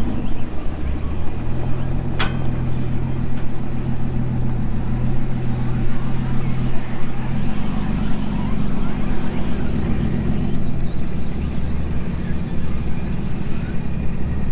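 Off-road recovery vehicle's engine running at low trail speed, its pitch shifting about half a second in and dropping again near the end. There is a brief sharp sound about two seconds in.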